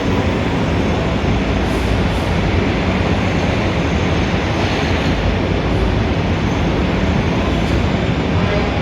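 Steady, loud city street ambience: a dense low rumble of traffic with a wash of mixed noise, swelling slightly about halfway through.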